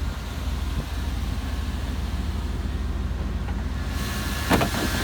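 A 1992 Chevy Silverado's 350 V8 idling steadily with an even low pulse. About four and a half seconds in there is one short, louder sound.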